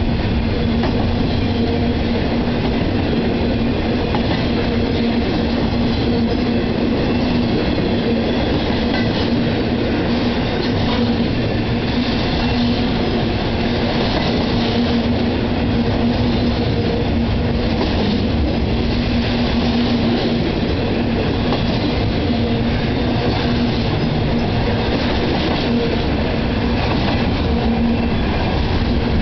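CSX intermodal freight train's cars, loaded with trailers and containers, rolling past: a steady heavy rumble of steel wheels on the rails with a continuous low hum through it and occasional clicks.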